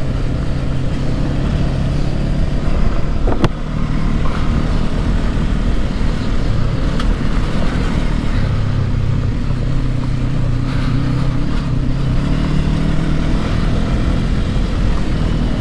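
Motorcycle engine, the Honda CB500X's parallel twin, running in second gear over rough ground, its pitch wavering as the throttle opens and closes, with a sharp knock about three seconds in.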